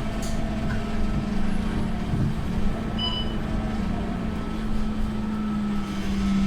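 Scania K230UB bus engine running with a steady low drone. A brief high beep sounds about three seconds in.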